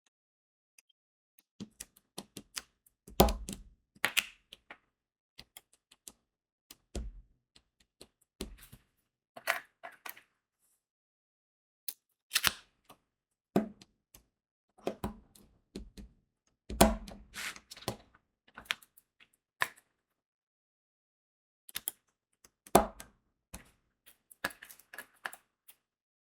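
Diamond painting work sounds: small crystal drills clicking and tapping as they are pressed onto the sticky canvas with an applicator pen, in irregular clusters with short pauses, and a few heavier taps among them.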